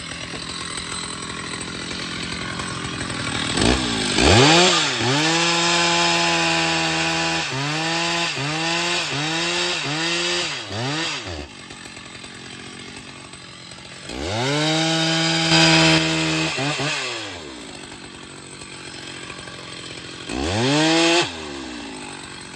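Chainsaw engine revved up to full throttle and held for a few seconds, then blipped four times in quick succession before dropping back to a low run. It is revved up again for about three seconds midway and briefly once more near the end.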